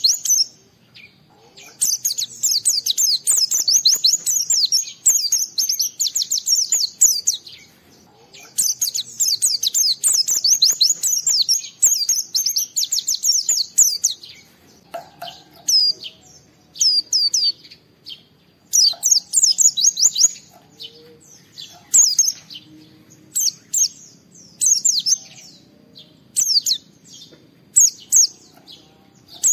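White-eye (pleci) singing a rapid, high twittering song in long runs of several seconds. From about halfway it sings in shorter bursts with pauses between.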